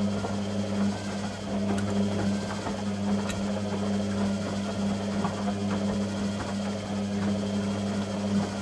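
Beko WTG620M1 washing machine running, a steady motor hum with a busier, irregular layer of faint sounds above it.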